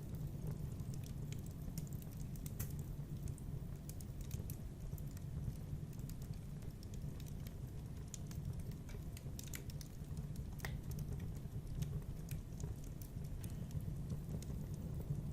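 Wood fire burning in a fireplace: a steady low rumble of flames with irregular small crackles and pops.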